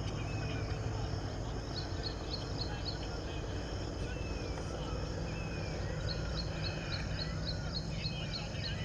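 Birds calling over a steady low rumble: quick runs of short high chirps and repeated falling whistled notes, every second or so.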